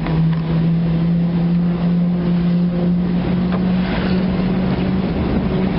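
Car engine and road noise heard from inside the cabin while driving: a steady drone whose pitch rises slowly over the first few seconds, then holds.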